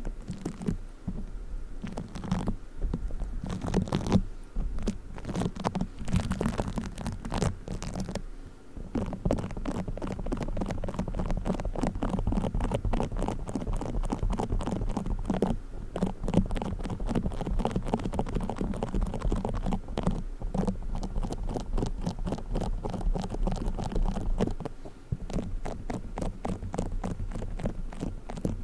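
Play foam being squished and kneaded close to the microphone: a dense, continuous sticky crackling, with brief lulls about 8 and 25 seconds in.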